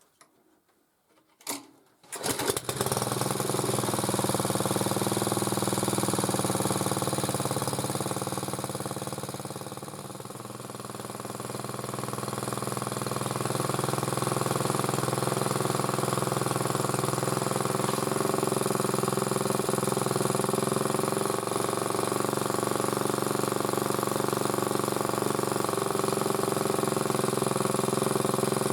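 MTD motor-cultivator's small four-stroke engine starting about two seconds in and then running steadily, just after its valve clearances were set: 0.20 mm intake, 0.15 mm exhaust. Its sound dips in level around ten seconds in and comes back up.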